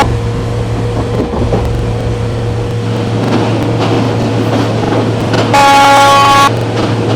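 A vehicle horn sounds one blast of about a second near the end, over a steady low running rumble.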